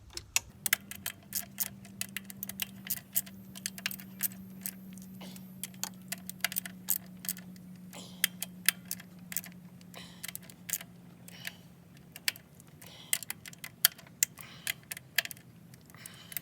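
Ratchet wrench clicking in short, irregular runs, with metal tools clinking, as the thermostat housing cap bolts are tightened down a little at a time.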